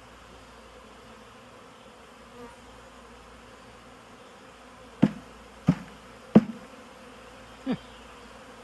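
Swarm of honeybees buzzing steadily, with four sharp knocks between about five and eight seconds in.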